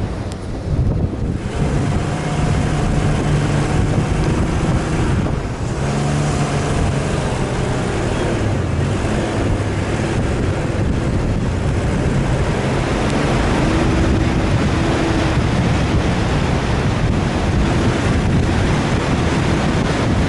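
Off-road vehicle's engine running under load, its pitch shifting, under loud, steady wind and rumble noise.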